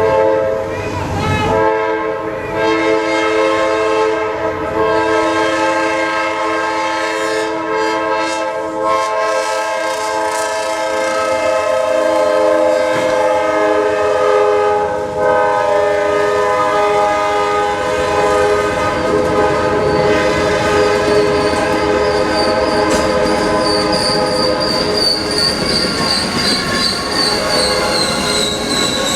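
A train horn blows a long, held chord for most of the first eighteen seconds as the train bears down on a car stuck on the crossing. After that a high steel-wheel squeal takes over and sags slightly in pitch near the end.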